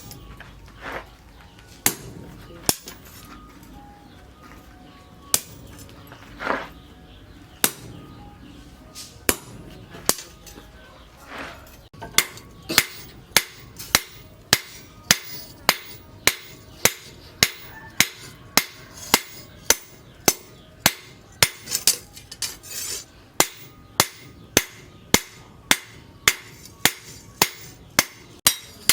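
Hammer blows on steel on an anvil while forging a blade from tractor disc-plough steel. The blows are scattered at first, then fall into a steady rhythm of about two strikes a second from roughly halfway through.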